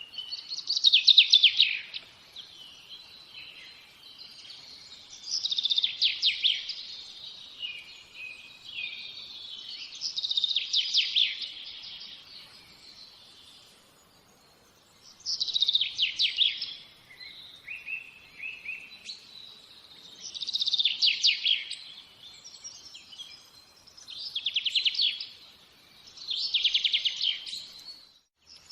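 A songbird singing: short, fast trilled phrases of one to two seconds, repeated about every four to five seconds, with softer chirps in between.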